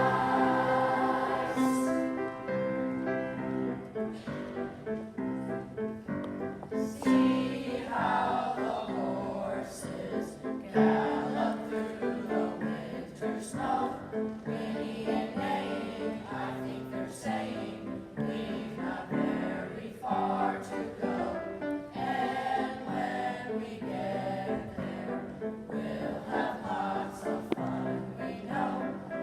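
Children's choir singing a song at a school program, with musical accompaniment.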